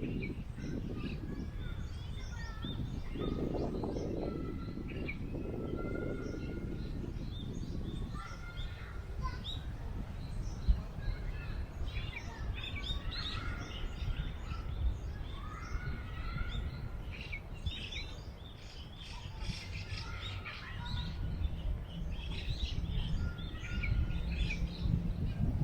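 Many small birds chirping and trilling over a steady low rumble of wind, the birdsong busiest in the second half. There is a single sharp click near the middle.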